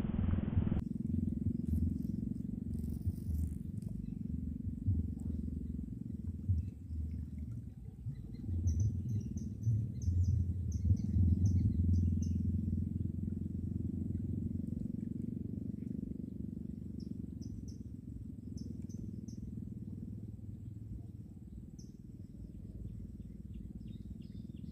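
Outdoor ambience: an uneven low rumble that swells and fades, with faint short high chirps of small creatures scattered through it.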